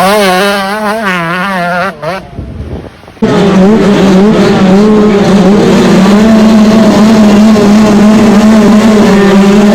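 125cc two-stroke motocross bike engines revving: for the first two seconds the revs waver quickly up and down. After a sudden cut about three seconds in, the engines are held at steady high revs with small fluctuations.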